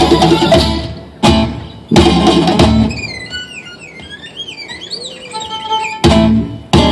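Live acoustic string-band music: guitar chords struck hard and left to ring in a stop-start rhythm, with a quieter break of a few seconds in the middle before the chords come back near the end.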